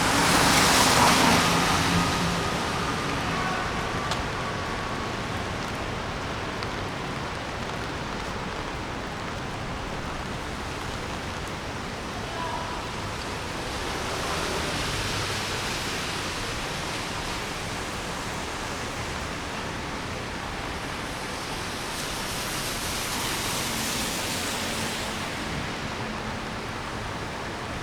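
Steady hiss of rain on a wet city street. The noise swells three times, near the start, about halfway and near the end, as traffic passes with tyres hissing on the wet road.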